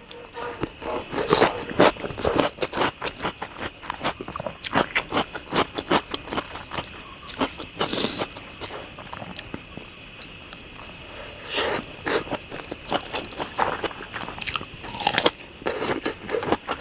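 Close-up eating sounds: irregular crunching, chewing and wet mouth clicks, with several louder crunchy bites. A steady high-pitched whine runs underneath.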